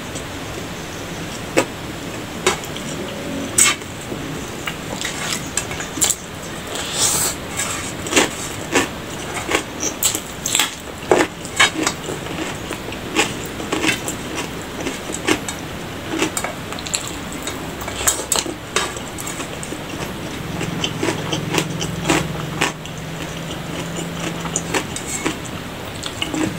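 Close-up eating sounds: a person chewing mouthfuls of rice with repeated wet smacks and clicks, and fingers picking food off a plastic plate. A low steady hum joins in for a few seconds near the end.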